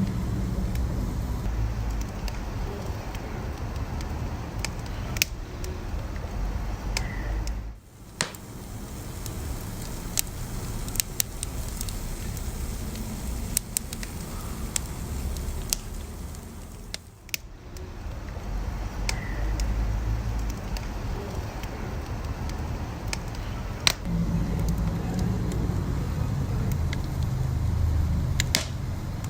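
Wood fire crackling: scattered sharp pops and snaps over a low, steady rumble of burning, which dips briefly twice.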